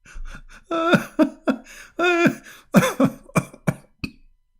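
A man's short vocal bursts, about eight in a row, non-speech and cough-like, two of them briefly drawn out, ending about four seconds in.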